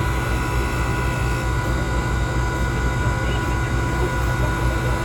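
Steady, loud engine-like mechanical rumble with an uneven pulsing low end and a few faint steady tones over it.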